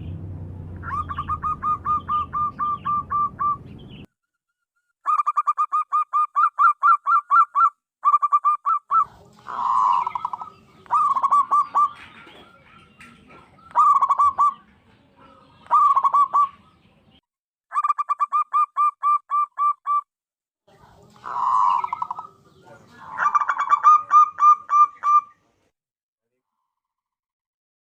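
Zebra dove (perkutut) cooing: several phrases of rapid, evenly repeated staccato coo notes, each lasting two to three seconds with short pauses between, some with a low hum behind them.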